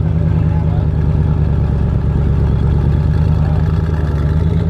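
Car engine idling steadily, with a constant low hum.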